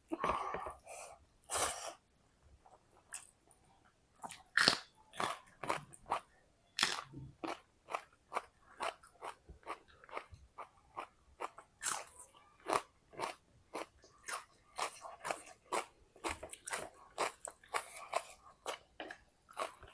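Close-up chewing and crunching of crisp food, eaten mukbang style. A few loud crunching bites come in the first two seconds and again about four to five seconds in, then steady chewing crunches, about two or three a second.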